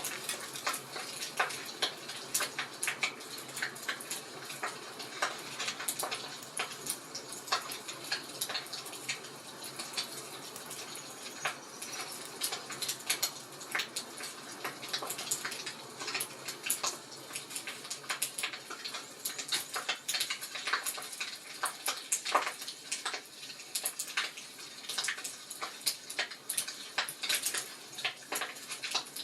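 Wood fire crackling in a fireplace: a steady soft hiss with frequent small irregular pops and snaps.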